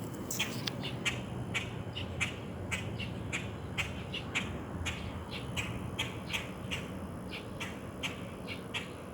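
Birds calling with short, quick chirps, about two or three a second, over a low background rumble.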